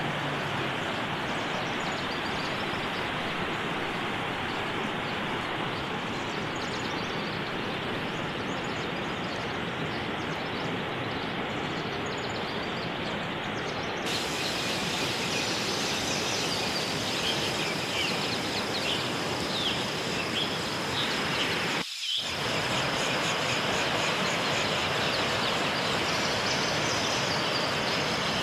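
Steady rush of a stream running over rocks, with birds chirping over it in the second half. The sound cuts out for an instant about two-thirds of the way through.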